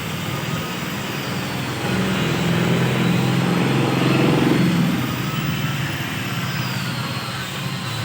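A steady low motor or engine hum that grows louder for a few seconds in the middle, then eases off.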